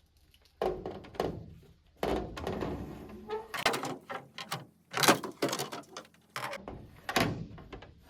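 Irregular clunks, knocks and scrapes of a metal windshield visor being handled and set in place on a pickup truck's cab roof for a trial fit, several of them sharp and loud.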